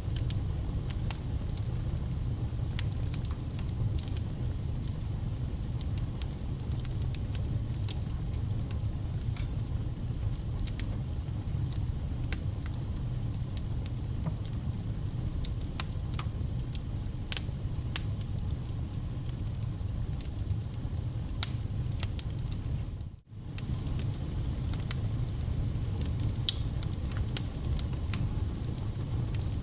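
Wood fire burning: a steady low rumble of flames with frequent sharp crackles and pops from the burning logs. The sound drops out for a moment about 23 seconds in.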